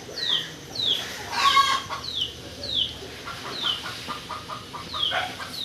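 Birds calling: a short, high falling whistle repeated about twice a second, a louder call with a rich stacked tone about a second and a half in, and from about three seconds a fast run of clucking notes.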